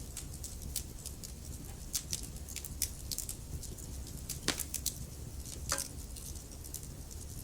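Wood fire in a fireplace crackling: a steady low rumble of flames under irregular sharp pops and snaps from the burning logs, with two louder pops about four and a half and almost six seconds in.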